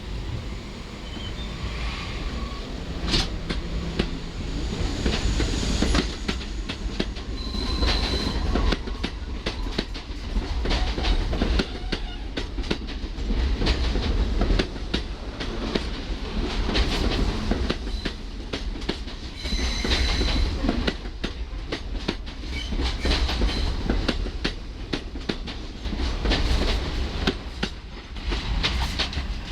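R42 subway train running along the track, its wheels clattering over the rail joints in a steady string of clicks over a low rumble that grows louder in the first few seconds. Brief high-pitched wheel squeals sound about eight seconds in and again about twenty seconds in.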